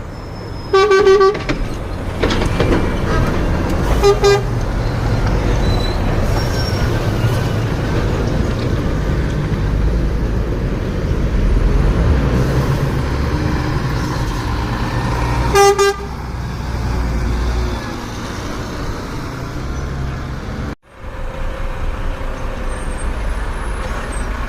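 Scania trucks' diesel engines running past with a low rumble, and a truck horn sounding three short toots: about a second in, about four seconds in, and near sixteen seconds in.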